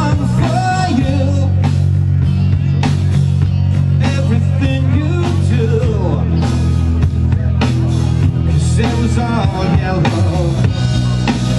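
Live rock band playing: electric guitars, bass guitar and drum kit, with steady bass notes under regular drum hits and a guitar line on top.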